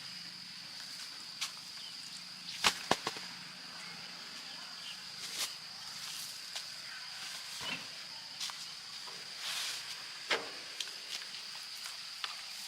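Outdoor rural background with a steady high-pitched insect drone, broken by scattered sharp clicks and knocks; the loudest are two clicks close together about two and a half seconds in.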